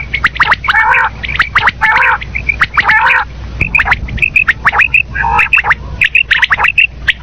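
Common quail calling over and over: short, sharp whistled notes mixed with harsher rasping calls about once a second.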